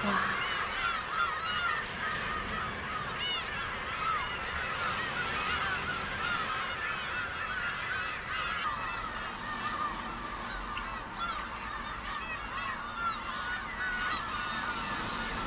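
A large flock of birds calling together: a dense chorus of many short, overlapping calls that goes on without a break.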